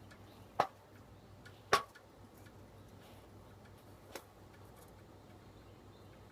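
Three short, sharp clicks spread over a few seconds, the second one loudest and the third faint, over a faint steady low hum.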